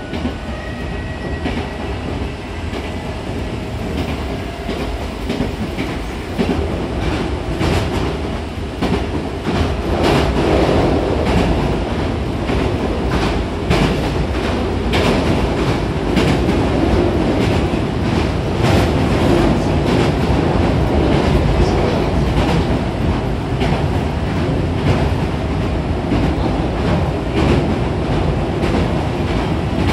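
Hankyu 6000-series electric train running, heard from inside the car by the doors: a steady rumble of wheels and body with repeated clacks over the rail joints, growing louder about ten seconds in.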